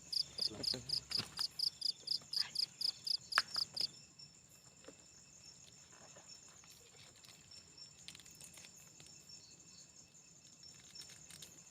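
A cricket chirping at night in a fast, regular pulse of about four to five high chirps a second, which stops about four seconds in, leaving a faint steady high trill of other night insects.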